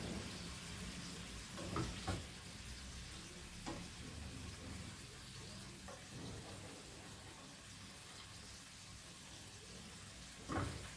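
Chicken liver sizzling steadily in hot cooking oil in a frying pan. A few short knocks of a utensil against the pan come as the liver is lifted out, the loudest near the end.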